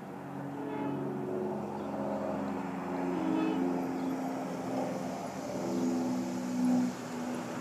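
Engine and vehicle noise with several steady tones that shift in pitch every second or so.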